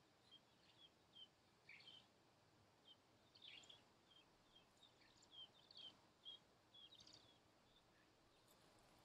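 Faint, short, high bird chirps, many of them at irregular intervals and busiest through the middle, over a quiet outdoor background.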